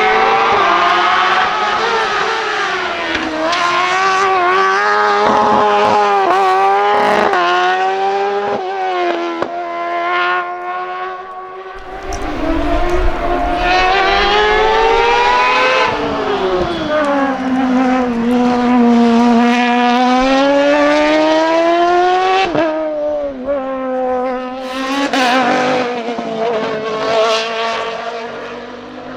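Race car engine revving hard, its pitch climbing and dropping repeatedly through quick gear changes and lifts.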